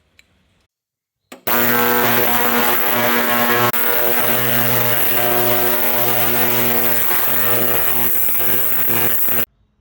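Motorcycle engine running at a steady speed, cutting in abruptly and cutting off sharply near the end, after carburetor maintenance.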